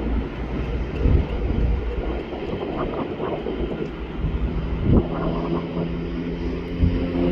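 Low engine rumble with scattered short knocks. A steady droning hum with a clear pitch joins about four seconds in.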